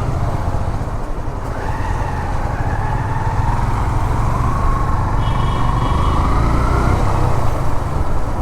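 Motorcycle running on the road, heard through a helmet-mounted microphone, with a steady wind and engine rumble. A vehicle horn sounds briefly about five seconds in.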